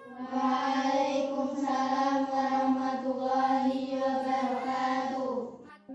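A group of voices chanting together on one steady held pitch, stopping shortly before the end.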